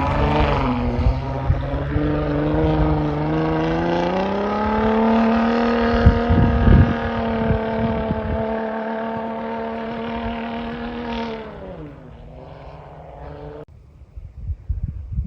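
Truck engine running under load, rising in pitch about four seconds in, holding steady, then falling away around eleven seconds and cutting off abruptly near the end. A few heavy low thumps come around the middle.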